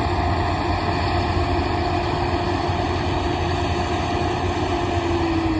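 A heavy engine running steadily, with a held whine that begins to drop in pitch near the end as the vehicle goes past.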